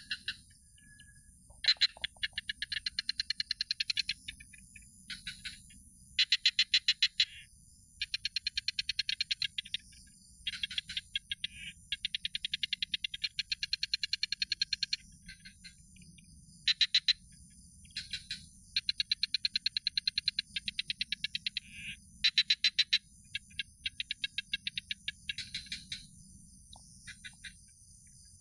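An animal's pulsed chirping call: rapid, evenly spaced pulses in trains of one to two seconds, repeated with short pauses, over a faint steady high-pitched hiss.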